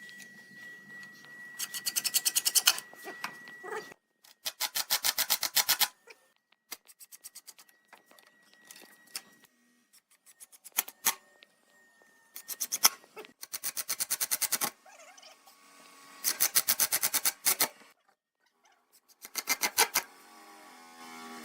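Rapid scraping strokes of a hand tool working wood, in short bursts of a second or two that start and stop abruptly.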